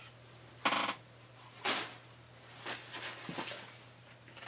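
Craft-supply packaging being handled and rustled: two short crinkling bursts about a second apart, then lighter rustling, over a steady low hum.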